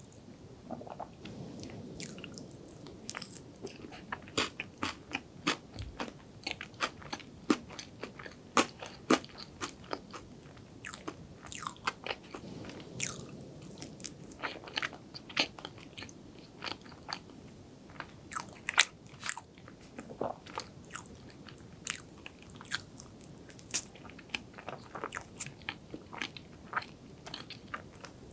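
Close-miked chewing of soft chocolate layer cake with cream cheese frosting: wet, sticky mouth sounds with many sharp, irregular clicks.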